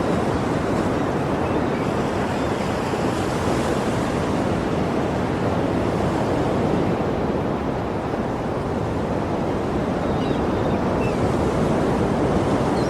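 Sea surf washing steadily, a continuous hiss of breaking waves that swells and eases slightly.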